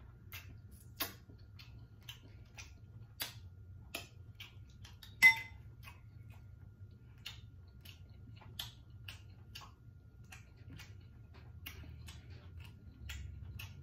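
Mouth eating sounds: irregular wet clicks and smacks of chewing and finger-licking, with one sharper, ringing click about five seconds in.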